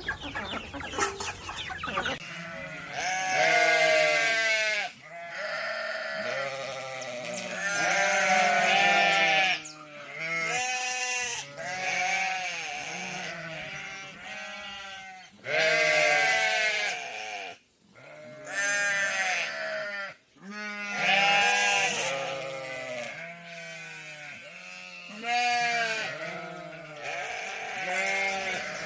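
Bleating livestock, long wavering calls repeating one after another and often overlapping, as from several animals at once. The first two seconds hold the tail of a different sound, likely poultry clucking.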